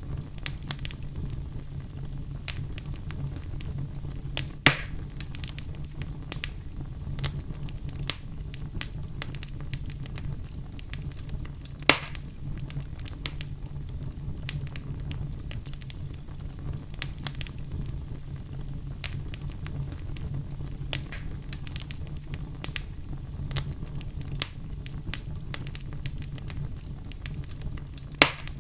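Wood fire burning in a fireplace: a steady low rumble under constant small crackles, with three sharp, much louder pops, about five seconds in, near the middle and just before the end.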